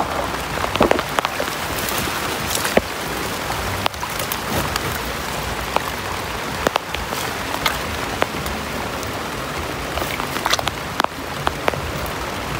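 Heavy rain falling steadily, with scattered sharp taps of drops throughout.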